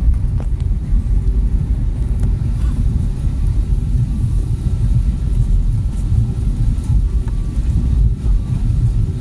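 Steady low rumble heard inside the cabin of an Airbus A320neo: engine and airflow noise from the jet as it taxis or takes off.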